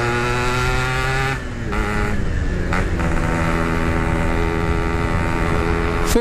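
Yamaha RX-King two-stroke single running under load while ridden, its note climbing steadily. The note drops off briefly about a second and a half in and again near three seconds, then climbs again.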